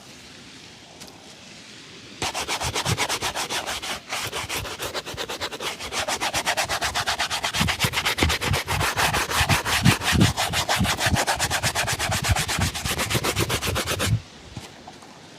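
A shoe being buffed with fast back-and-forth rubbing strokes, about seven a second. The strokes start about two seconds in and stop suddenly near the end.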